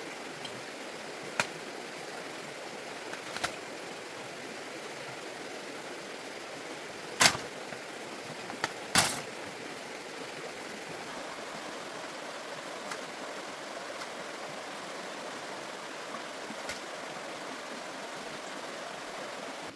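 Steady rushing noise, with a few sharp knocks standing out and two louder ones about seven and nine seconds in.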